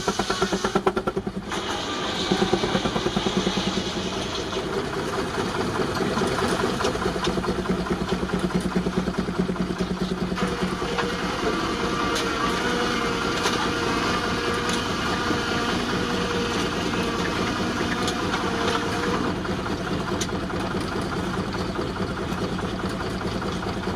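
Baker 19-65 Uniflow steam traction engine running steadily while belted to a sawmill, its exhaust beating rapidly and evenly. From about ten seconds to nineteen seconds a steady higher whine joins it.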